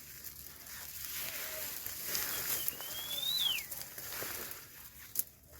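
A bird's thin whistled call, one note that rises and then drops steeply, about halfway through, which the hiker takes for a chick calling, perhaps a young eagle left by its parent. A steady high hiss lies underneath, and there is a single sharp click near the end.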